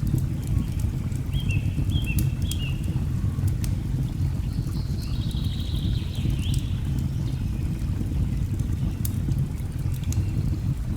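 Steady low rush of a waterfall, with a few sharp crackles from a wood fire. Birds call over it: a few short chirps between about one and three seconds in, then a rapid trill around five to six seconds.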